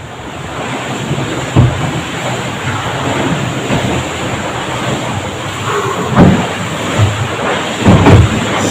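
Inside the bow of a Volvo 65 racing yacht under sail: a steady loud rush of water along the hull, with a few heavy bangs as the bow slams into waves, intermittent, one under two seconds in and the rest in the second half.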